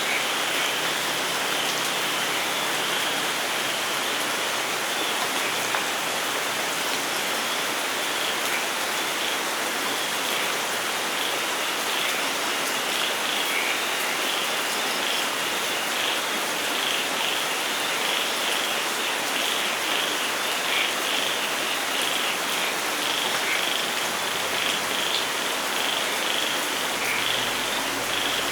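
Steady rain falling on a forest, with a continuous chorus of many short, high-pitched animal calls repeating over it.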